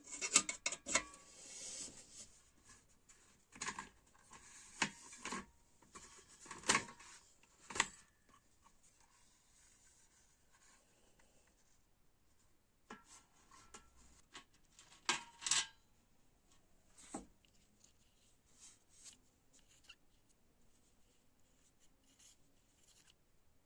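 Hand work on parts: short bouts of rubbing and scraping with sharp clicks and knocks, mostly in the first eight seconds and again around 13 to 17 seconds, with quiet stretches between.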